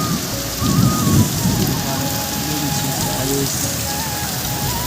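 Heavy rain pouring steadily. A thin, faint melody of held notes steps between pitches over it.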